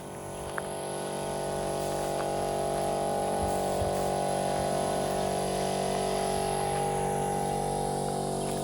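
Steady mechanical hum made of many fixed tones, growing louder over the first few seconds and then holding level, as from a stationary running machine or idling engine being approached.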